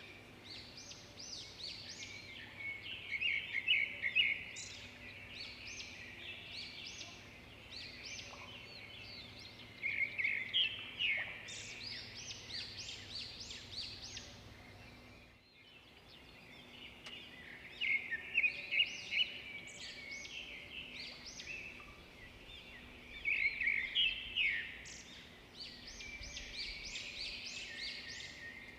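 Birdsong: dense high-pitched chirping and twittering from small birds, going on without let-up, with louder flurries every several seconds and a brief break about halfway through.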